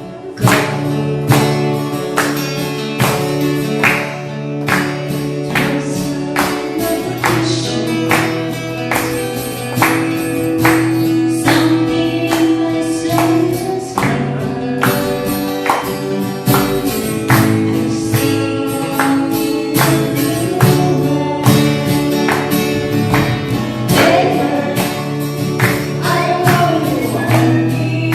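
A group singing a song together to strummed acoustic guitars, with a steady strumming rhythm throughout.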